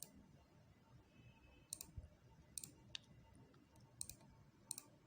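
Near silence broken by about half a dozen faint, sharp clicks.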